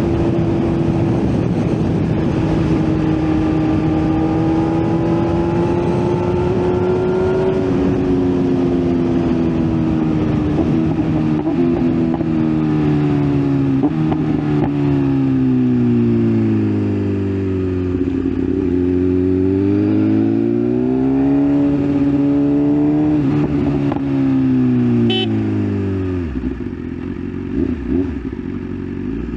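BMW S1000RR's inline-four engine on the move. It holds steady revs at first, then the pitch sweeps down and up several times as the bike slows and speeds up, dropping low near the end. A steady rush of noise runs underneath.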